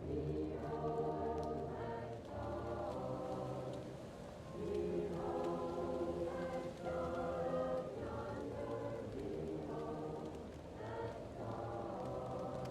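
A choir singing slow, held chords, muffled as if heard from another room, with faint crackling from a fireplace underneath.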